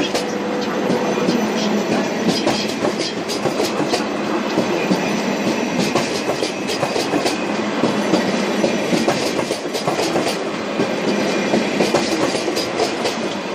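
Koleje Mazowieckie double-deck passenger train passing close by: a steady rumble of wheels on rail, broken by repeated sharp clicks. The sound eases slightly near the end.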